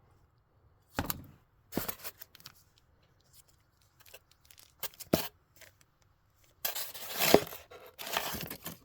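Packaging of a scooter cylinder kit being unwrapped by hand. A few separate sharp rustles and clacks come first, then a louder, longer stretch of tearing and crinkling near the end.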